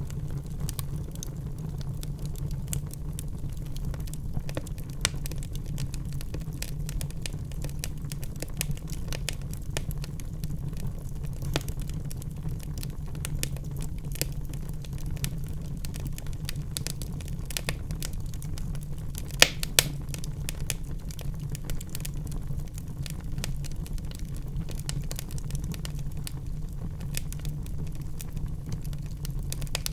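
Wood fire in a fireplace crackling, with irregular sharp pops over a steady low rumble; one louder pop about two-thirds of the way through.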